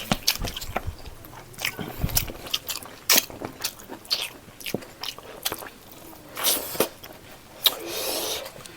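A person eating rice with pork leg gravy close to the microphone: chewing, with frequent short mouth clicks and smacks, and two longer noisy sounds about six and a half and eight seconds in.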